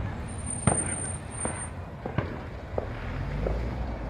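Fireworks going off: about five separate bangs, the loudest a little under a second in.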